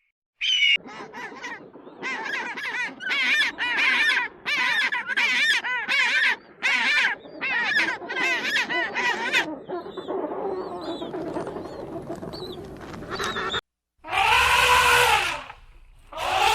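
A bird calling: a rapid run of short, pitched calls, about two a second, then a softer stretch. After a brief break near the end, another loud call begins.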